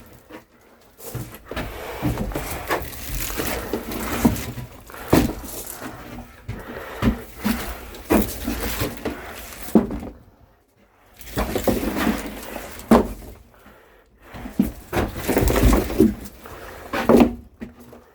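Firewood logs being handled and stacked: irregular wooden knocks and clunks with scuffing between them, and a short pause about ten seconds in.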